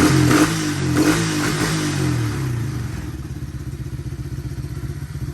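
A 125cc ATV's small single-cylinder engine is running; revs sink from a blip back to a steady, even idle over the first two and a half seconds.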